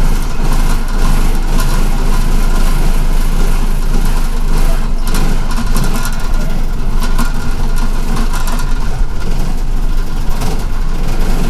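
Inside a city bus: the engine running with a steady low rumble while strong blizzard wind buffets the bus body.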